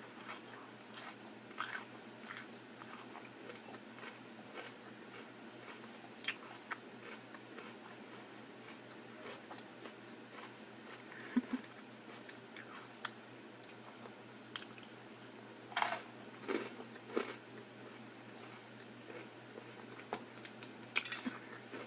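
A person chewing and biting food close to the microphone, with scattered short crunches and wet mouth clicks.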